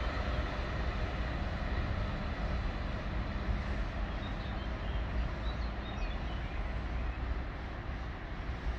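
ICE high-speed train running along the line, a steady rumble and rolling noise that eases slightly toward the end as the train draws away.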